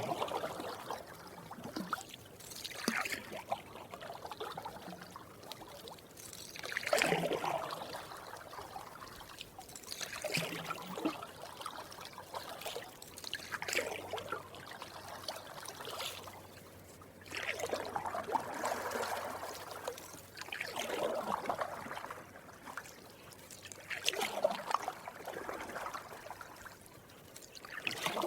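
Canoe paddle dipping and pulling through water in slow strokes, a swishing splash every three to four seconds, with water trickling off the blade between strokes.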